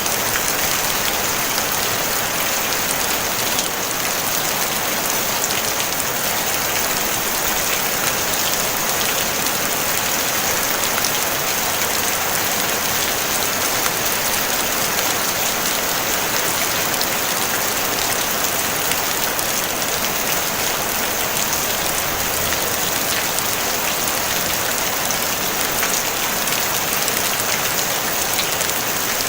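Steady rain falling on a tin roof: an even, dense patter of drops on sheet metal, with no thunder.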